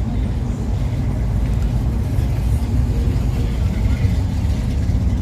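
Steady low rumble of a running vehicle engine, with voices in the background.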